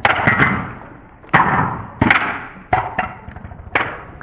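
Two Beyblade Burst tops spinning and clashing in a stadium: about six sharp hits at irregular spacing, each trailing off in a whirring hiss.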